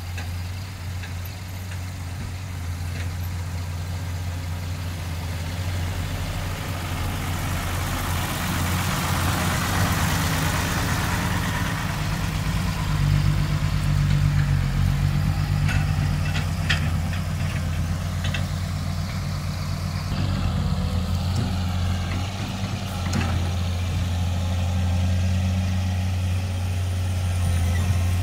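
Heavy diesel engine running steadily, its note rising and strengthening about halfway through as it takes load. A swelling hiss comes and goes about eight to twelve seconds in, and a few sharp knocks follow around sixteen seconds in.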